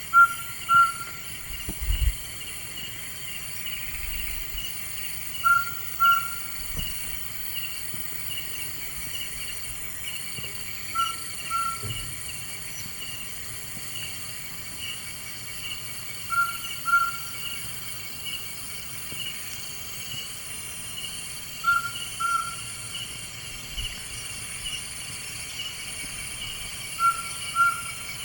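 A night bird calling, each call two short notes close together, repeated about every five to six seconds, six times.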